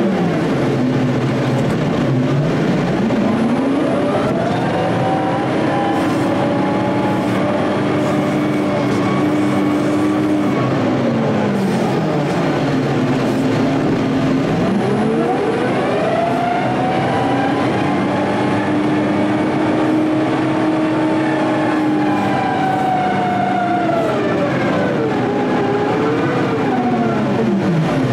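Front-end loader's diesel engine working under load, revving up and dropping back low several times. The pitch falls about two seconds in, again near twelve and fourteen seconds, and once more at the end, holding high for several seconds between dips.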